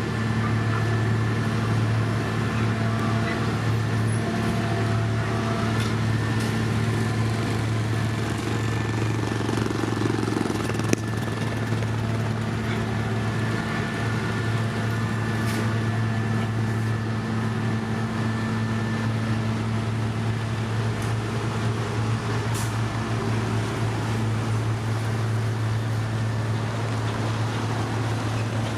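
Diesel engine of heavy road-construction machinery running at a steady speed, with one sharp knock about eleven seconds in.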